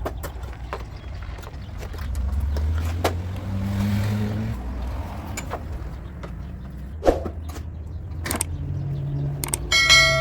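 Hammer work on sheet metal: scattered light knocks, a sharper blow about seven seconds in, and near the end a loud strike that leaves the metal ringing. A steady low rumble runs underneath.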